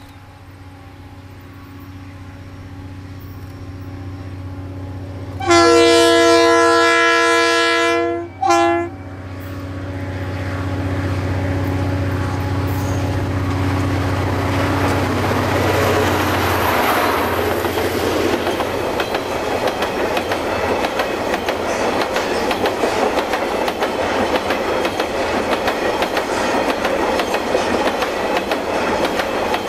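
A milk train hauled by DFB and DXB diesel-electric locomotives approaching, its diesel engines growing louder. About five seconds in the lead locomotive sounds its multi-note horn in one long blast and a short one. The locomotives then pass, and the milk tank wagons roll by with a steady clickety-clack of wheels over the rails.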